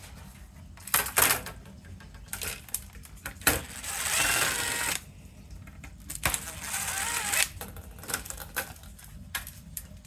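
Small metal parts clicking and clattering on a work surface, with two runs of a small power screwdriver, about a second each, backing screws out of the camera's housing.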